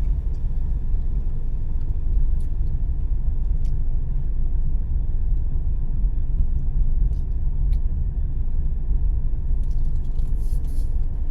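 Car driving at steady speed: a constant low rumble of road and engine noise, with a few faint ticks.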